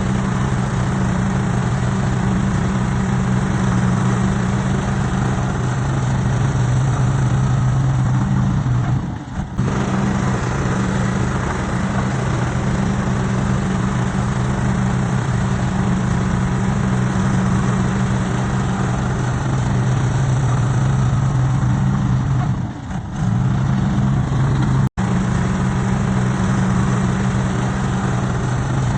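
Heavy earthmoving machine's diesel engine running steadily. The sound dips briefly twice and cuts out for an instant once.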